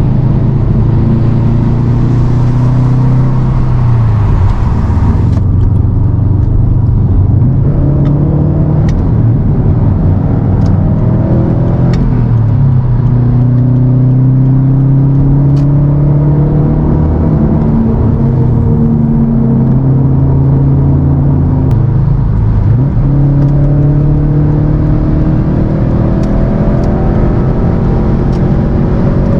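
2018 Subaru WRX STI Type RA's turbocharged 2.5-litre flat-four pulling through the gears. Its note climbs slowly and drops suddenly at each upshift of the six-speed manual, several times over, with steady road noise underneath.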